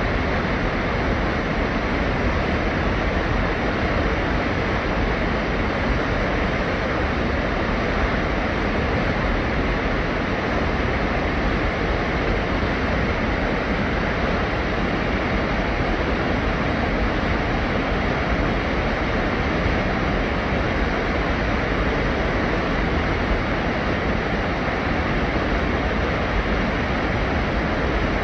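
Steady rushing of rain together with a mountain stream: an even, unbroken wash of water noise.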